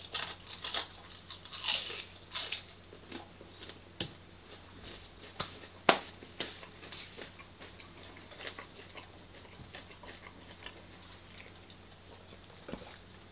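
A person biting into and chewing crisp homemade deep-fried chips. The crunching is densest in the first few seconds, then thins to occasional single clicks.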